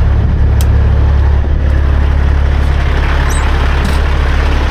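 Semi truck's diesel engine idling steadily with a constant low drone.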